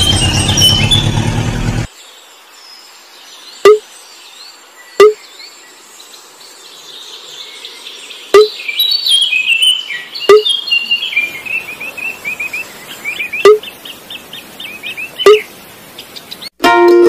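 An engine sound runs for about the first two seconds and cuts off abruptly. Birds then chirp over a quiet background, broken by six loud, short pops spaced one to three seconds apart.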